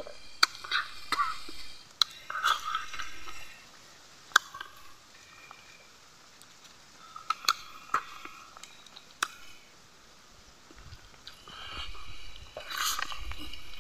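A man chewing a mouthful of rice and fish curry close to the microphone, with wet smacking and crunching and a few sharp clicks spread through; the chewing picks up again near the end as he takes another large mouthful.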